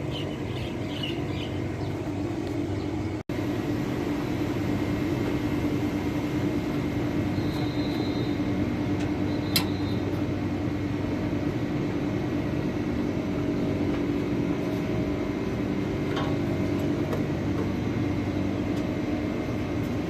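Steady mechanical hum with a constant low tone. It drops out for an instant about three seconds in, and there is a single sharp click about halfway through.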